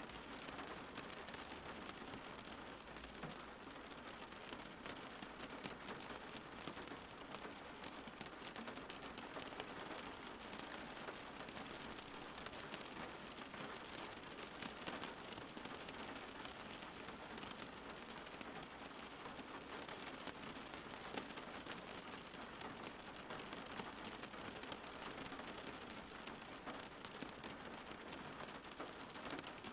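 Steady rain falling, an even patter of drops on a surface with no let-up.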